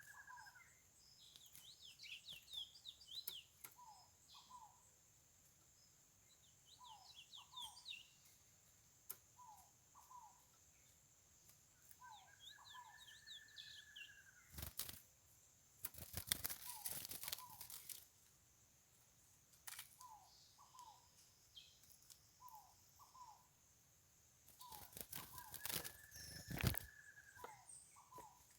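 Curió (lesser seed finch) singing faintly in repeated phrases of short paired whistled notes, quick high trills and long arched whistles, over a steady high hiss. Two bursts of rustling noise come about halfway through and near the end.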